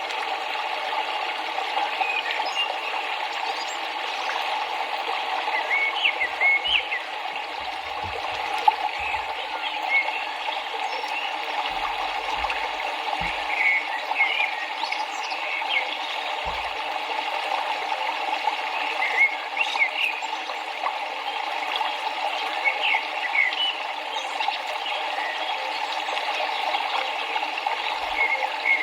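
River water rushing steadily, with birds chirping in short, scattered calls over it.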